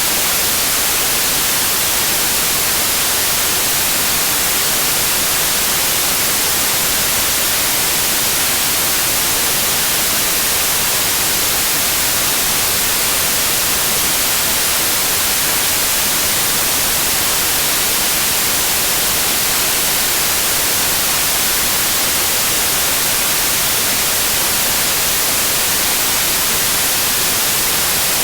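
Steady white noise: a constant, even hiss across the whole range, brightest in the highs, with no changes.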